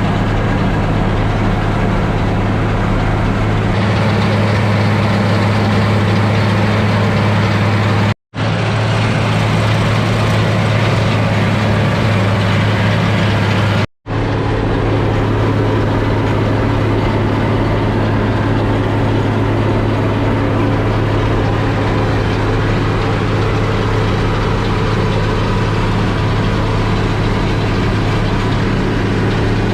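International Harvester 1086 tractor's six-cylinder turbo diesel engine running steadily under load while it pulls a hay conditioner through the field. It is a constant low drone mixed with machinery rumble. The sound cuts out abruptly for a moment twice, about 8 and 14 seconds in.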